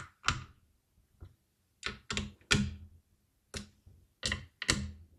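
Irregular sharp clicks and taps of small hard parts and tools being handled, about ten in five seconds.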